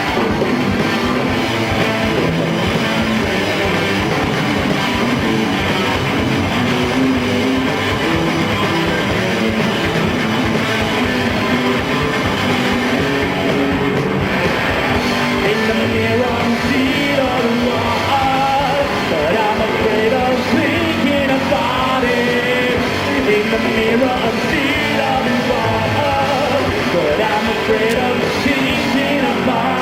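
Live rock band playing loud through a bar's PA, with a melody line weaving over the band in the second half.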